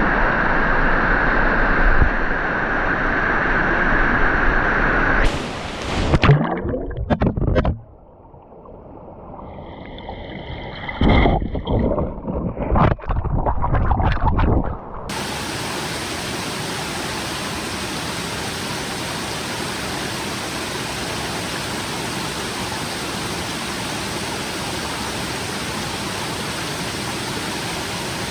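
Stream water rushing, an even, steady noise. In the first half the sound changes abruptly several times and turns dull and muffled for a few seconds, with some knocks.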